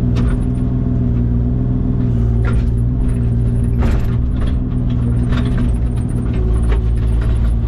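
Diesel engine of compact earthmoving equipment running steadily, with a few short clanks of the machine working at intervals.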